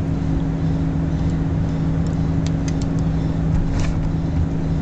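Steady mechanical drone with a constant low two-tone hum over a noisy rumble, broken only by a few faint small clicks.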